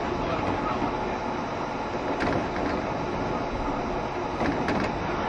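Steady running noise inside a JR Shikoku 7200 series electric train car under way, heard from the cabin. A few faint clicks from the wheels over the rails come about two seconds in and again near the end.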